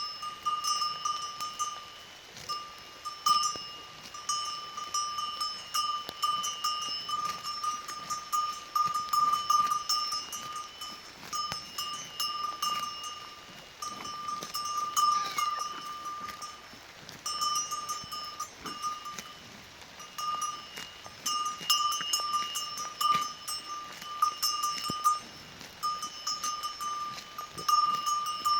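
A bell on a cow clanking over and over, each strike ringing a clear, bell-like tone.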